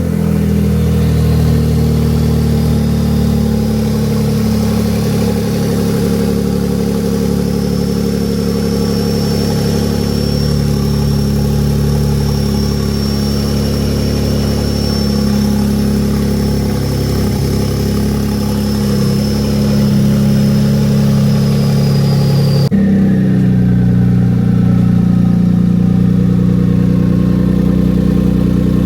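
Genesis G70 twin-turbo project engine idling steadily on its first start after the build, with a faint high whine over the running. About 23 s in the sound jumps abruptly to a slightly different idle.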